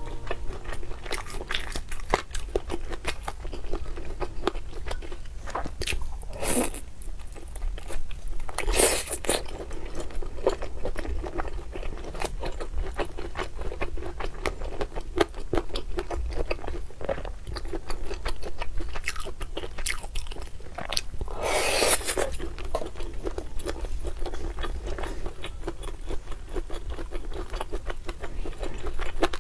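Close-miked biting and chewing of oden fish cakes and fried tofu from skewers: a dense run of moist little clicks and squelches, with a few louder hissing noises, each about a second long.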